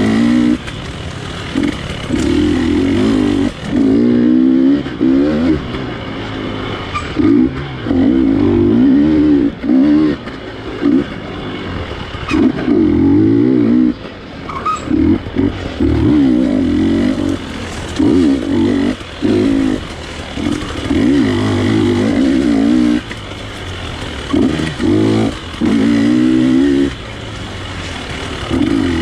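GasGas 250 dirt bike engine under race throttle, revving up in short bursts and dropping back over and over as the throttle is worked on and off.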